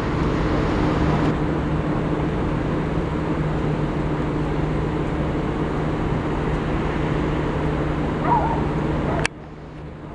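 Wright StreetCar bus (Volvo B7LA) with its engine cooling fan running loudly, a steady vacuum-cleaner-like rush over a steady engine hum. A short high squeak comes a little after eight seconds, and about a second later the noise drops off abruptly.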